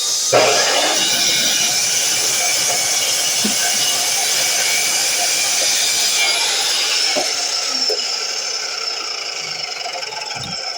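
DeWalt miter saw running and cutting, a loud steady high whine with a knock just after it starts. In the second half the whine slides down in pitch and the sound fades as the blade spins down.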